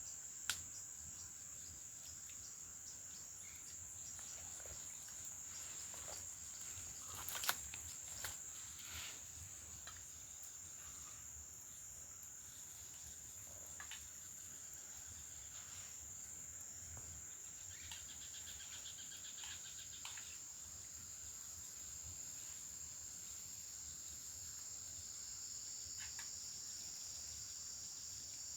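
Steady high-pitched drone of a chorus of insects such as crickets, running unbroken. A few sharp clicks or knocks cut through it, the loudest about seven seconds in.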